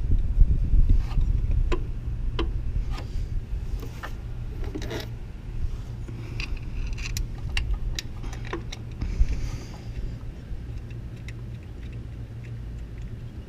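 Scattered light metallic clicks and taps of bolts and a hand tool being worked as the water pump bolts are started into the aluminum engine block, over a steady low rumble.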